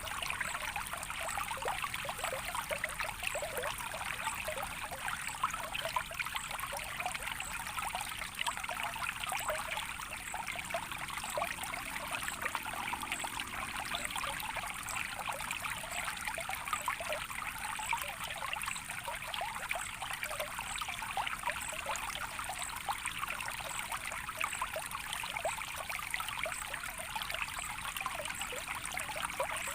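A stream of water trickling steadily, a dense run of small bubbling splashes with no pauses.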